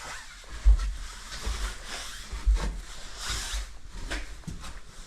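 Footsteps going down a staircase: dull thumps about once a second, with rustling of clothing and handling noise.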